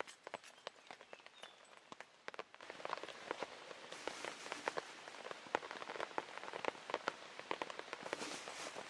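Rain falling as a dense, irregular patter of drops, growing heavier about two and a half seconds in.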